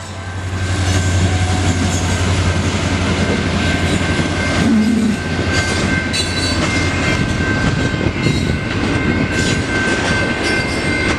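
Norfolk Southern freight train passing close by at a grade crossing. The locomotive's diesel rumble is strongest in the first few seconds, then gives way to the noise of freight cars rolling over the rails with scattered clacks from the wheels. Steady high-pitched crossing-signal bells ring throughout.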